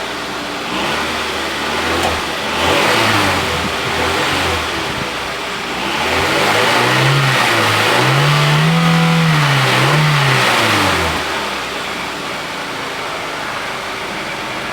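Honda Integra four-cylinder engine running with the exhaust unbolted for a louder, deeper note. It idles, is blipped twice in the first few seconds, then revved for about four seconds from around six seconds in before dropping back to idle.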